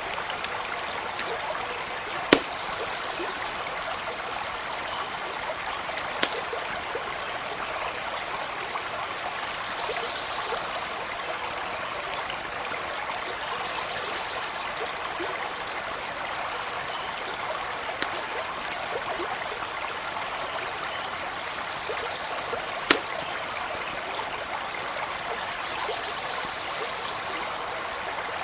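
A stream running steadily, broken by a few sharp pops from a campfire, two of them clearly louder than the rest.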